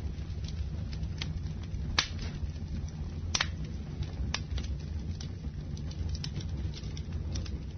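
Campfire burning: a steady low rumble with irregular crackles and sharp pops of burning wood, the loudest pops about two seconds and three and a half seconds in.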